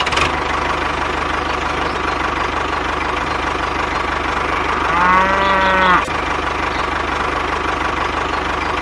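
Small DC motor of a homemade toy tractor running steadily with a buzzing hum. A cow moos once, for about a second, about five seconds in.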